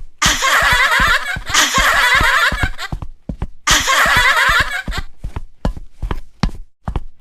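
Two bursts of laughter, the first lasting a little under three seconds and the second more than a second, over a steady run of clip-clop taps like hooves.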